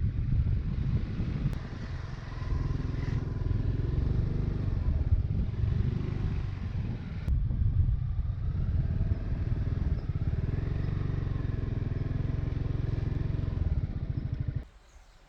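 Honda ADV350 scooter's single-cylinder engine running steadily. There is a brief break about seven seconds in, and the engine sound cuts off suddenly near the end.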